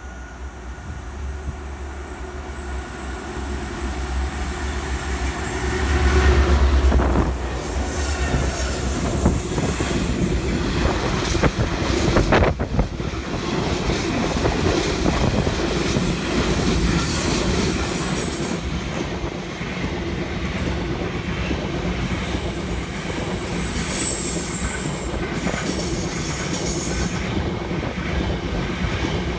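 Diesel-hauled grain train passing close by. The locomotives' low rumble is loudest about six seconds in, followed by a long string of grain hopper wagons rolling past with steady wheel clatter. High-pitched wheel squeal comes and goes in the second half.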